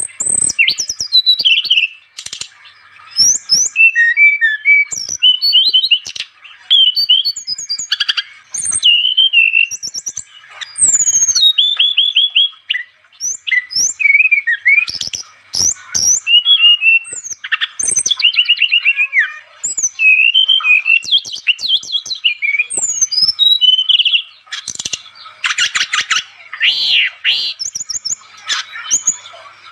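Brown-chested jungle flycatcher (sikatan rimba dada coklat) singing vigorously. Its song is a nearly continuous run of quick, varied high chirps and sweeping whistled notes, broken only by brief pauses.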